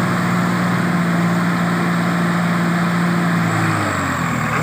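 Swaraj tractor's diesel engine held at high revs, then the revs dropping away near the end.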